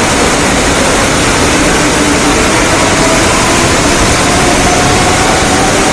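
Mumbai suburban local train running in heavy rain: a loud, steady rush of rain and running noise with faint steady motor tones beneath it.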